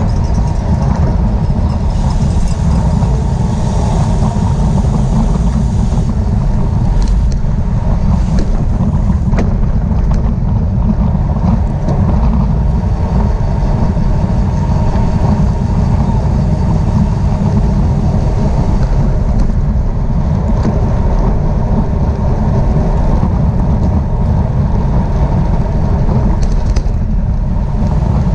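Steady, loud wind rush on the microphone of a camera moving with a bicycle road race, with a few faint clicks.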